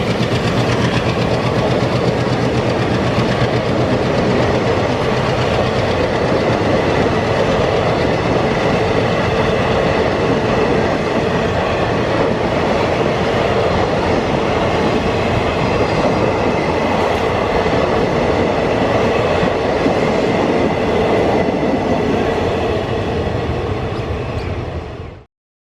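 Passenger coaches of an express train rolling past, a steady rumble and rattle of wheels on the track. The sound cuts off abruptly near the end.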